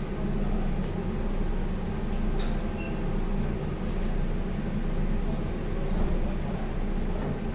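Steady drone of ship's engine-room machinery, with a few faint clicks from metal parts being handled.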